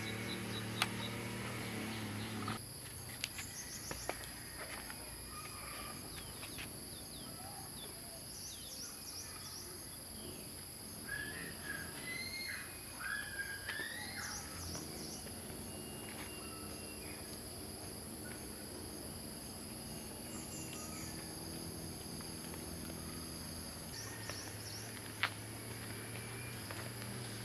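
Outdoor ambience: a steady high-pitched insect drone with scattered bird chirps and short whistles, strongest in the middle. A low hum stops a few seconds in and comes back near the end, and a few sharp clicks are heard.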